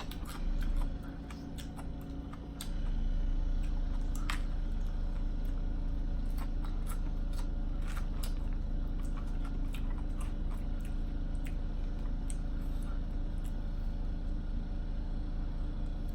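A steady low grumbling rumble from building work and pipes downstairs, growing louder about three seconds in and then holding, with scattered crunches and clicks of someone chewing fried food.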